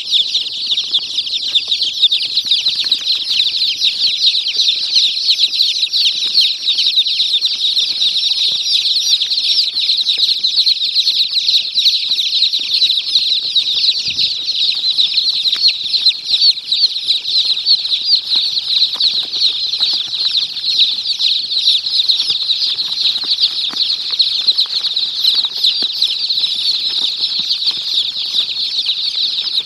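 A brood of baby chicks peeping together: a dense, continuous chorus of many overlapping high chirps.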